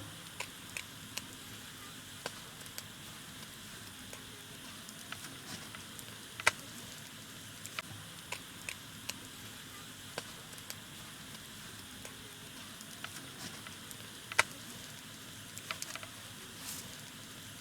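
Wood fire crackling in a campfire stand: a faint steady hiss with scattered sharp pops, two of them louder, about six seconds in and about fourteen seconds in.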